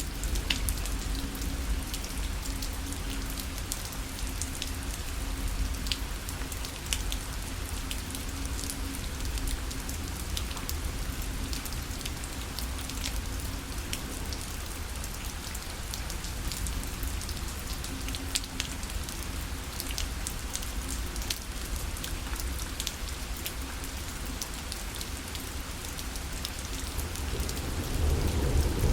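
Rain falling against a parasol: a steady hiss of rain with many single drops tapping on the canopy. A low rumble underneath swells near the end.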